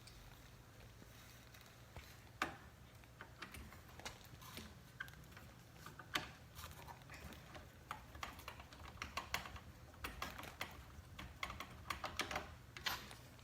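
Faint, irregular clicks and taps from handling a ceiling fan blade and its blade-arm screws during blade installation, sparse at first and coming more often toward the end.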